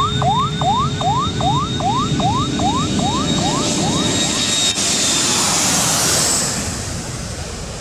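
Runway warning siren sounding repeated rising whoops, about three a second, fading out a few seconds in, under the noise of a jet airliner passing close by, whose whine is loudest near the middle.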